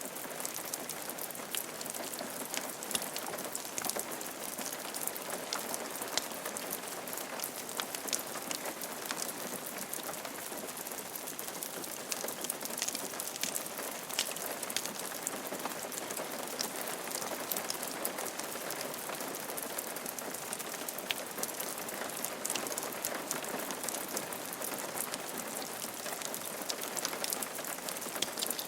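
Steady rain falling on a roof, with a continuous hiss and many separate drops ticking against it.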